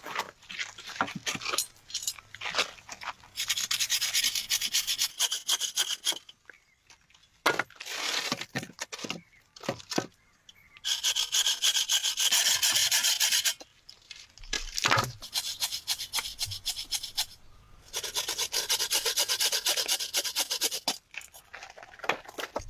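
Hand saw cutting through wood in four bouts of a few seconds each, with sharp clicks and snaps between them.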